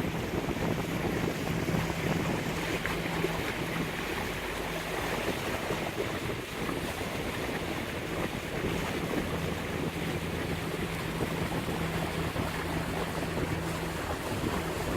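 Lagoon 42 catamaran motoring under engine power: a steady low engine hum over water rushing past the hulls, with wind buffeting the microphone.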